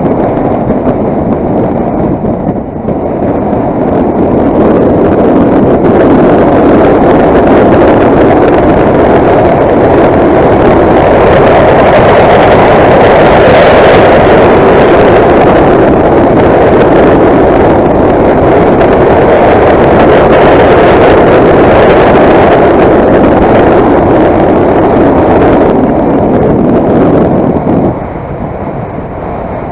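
Motorcycle riding at speed: a loud, steady rush of wind over the microphone mixed with engine and road noise, easing a little near the end.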